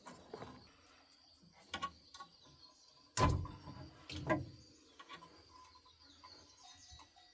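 Two heavy knocks about a second apart amid lighter clicks, as parts or tools are handled during car repair work, with a faint high chirping behind.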